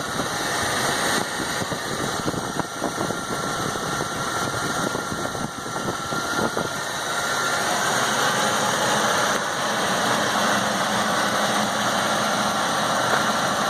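Gasoline engine of a 1991 Ford dump truck running, probably near idle: uneven for the first several seconds, then steadier and slightly louder from about halfway.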